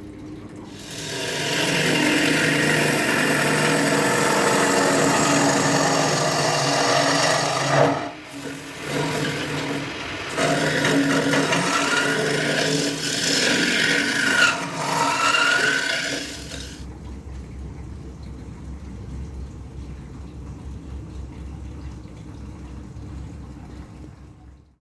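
Wood lathe running while a tool or abrasive rasps against the spinning wood, with two short breaks and a few brief squeals. The rasping stops about 16 seconds in, leaving a low hum.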